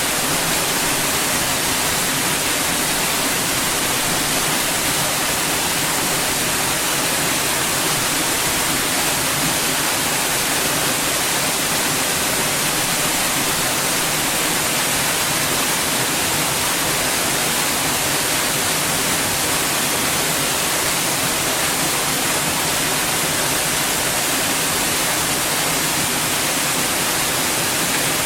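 Steady, unchanging white noise, a constant hiss strongest in the high range.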